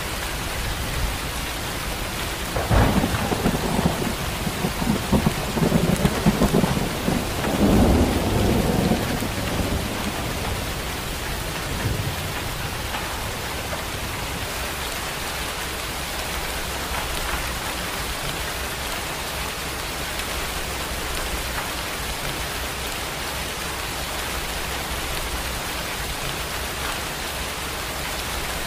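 Steady heavy rain falling, with a roll of thunder rumbling in about three seconds in and dying away after some six seconds.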